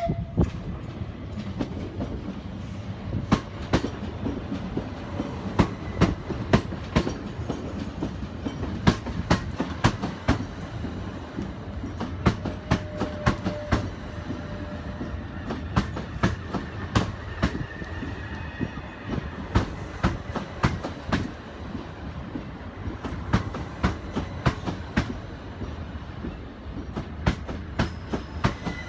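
Southern Class 377 Electrostar electric multiple unit running slowly past along the platform, a low rumble with its wheels clacking over rail joints and points. A squeal starts near the end.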